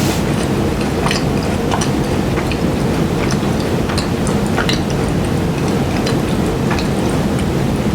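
Close-miked chewing of French macarons: a steady, loud mouth noise with many small, irregular crackles from the crisp meringue shells breaking up.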